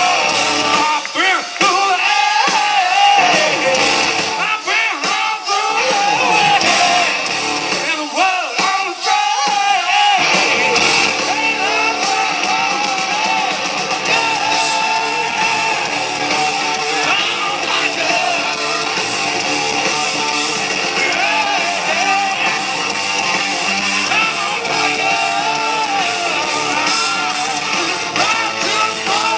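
Live hard rock band playing, with electric guitar and singing. The low end is thin at first, and the full band with bass and drums comes in about ten seconds in.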